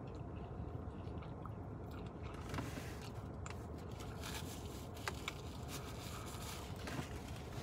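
A person chewing a mouthful of pepperoni pizza, with crisp paper crackles from a napkin wiped across the mouth from about two seconds in.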